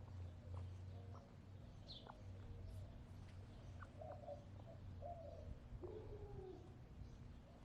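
Backyard hens making faint, soft low clucks, a few short notes between about four and six and a half seconds in, with a brief high chirp from a wild bird about two seconds in.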